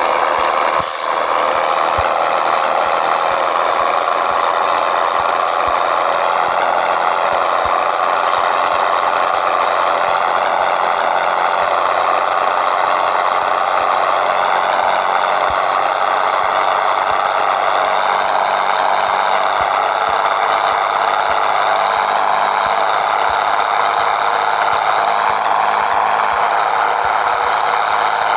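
Scania 113 truck's 11-litre six-cylinder diesel running continuously and loud, its pitch rising slowly, with a brief drop in level about a second in.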